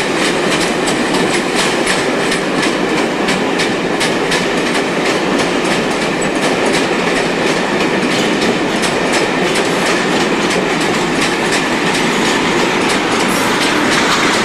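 A train running past on the station tracks, a loud steady rumble with a quick run of wheel clicks over rail joints.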